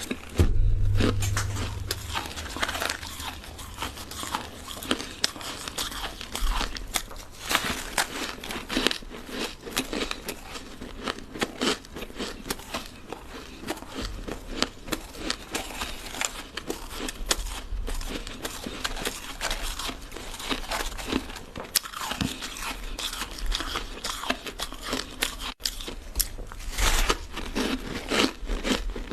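Ice being bitten and crunched between the teeth in a dense, irregular run of cracks and crackles.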